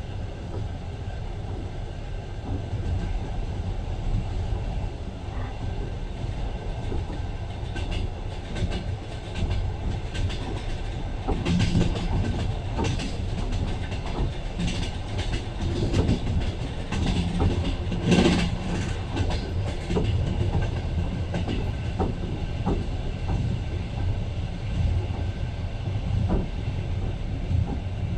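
Passenger train running along the track, heard from inside the carriage: a steady low rumble, with the wheels clattering over rail joints in bursts through the middle.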